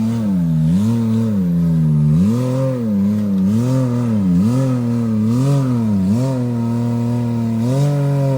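Side-by-side UTV engine being revved up and down in quick repeated throttle blips while it climbs a rocky crawl, then held at a steadier speed near the end.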